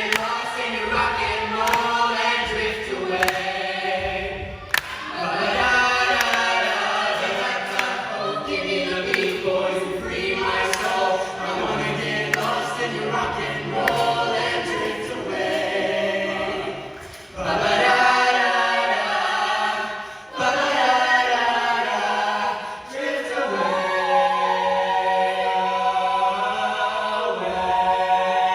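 High school show choir singing a rock number, many voices in chordal harmony with short breaks between phrases.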